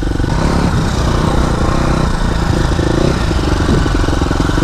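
Dirt bike engine running at fairly steady, moderate revs as the bike rides along, with the revs rising and falling slightly, heard close up from a helmet-mounted microphone.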